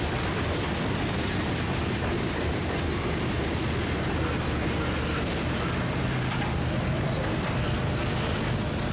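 Freight train passing, its cars rolling steadily on the rails, with a low hum coming up about halfway through.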